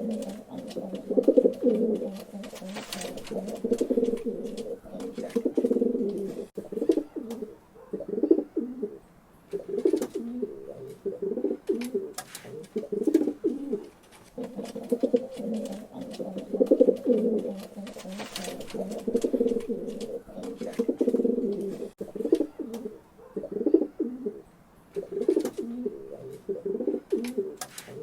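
Pigeons cooing in low, rolling phrases that overlap almost without pause, swelling and fading every second or two. Scattered faint clicks and taps run through it.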